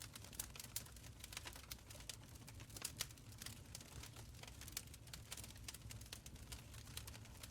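Wood fire crackling in an open stone fireplace: many irregular sharp pops and snaps over a soft low rumble of the flames.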